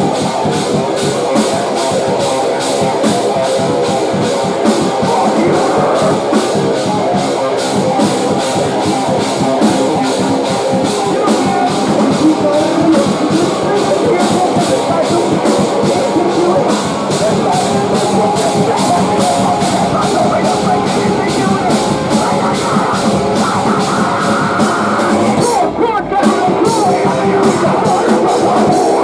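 Live post-hardcore band playing loud, heavy rock: distorted guitars over a fast, driving drum kit, with a short break near the end.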